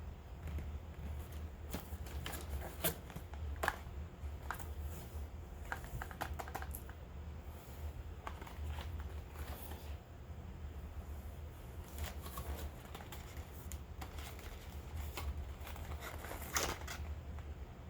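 Hands handling packaging and cosmetic products: irregular light clicks and taps, with a longer rustle about sixteen and a half seconds in, over a low steady hum.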